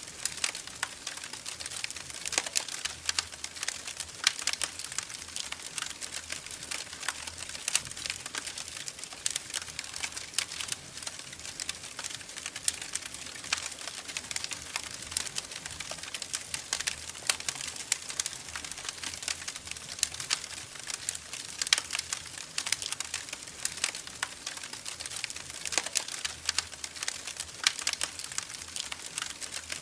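Wood fire crackling in a fireplace: a dense, irregular run of sharp pops and snaps over a soft, steady hiss of burning.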